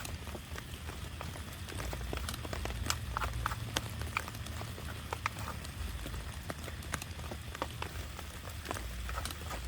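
Heavy rain with large drops tapping irregularly on a tarp, several sharp ticks a second over a low steady rumble.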